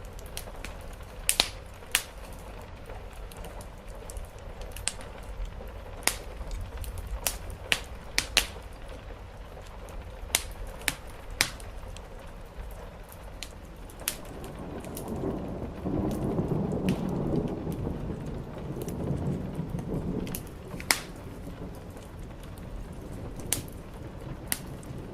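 Steady rain with a wood fire crackling, sharp pops every second or so. About halfway through a low rumble of distant thunder swells and fades over several seconds.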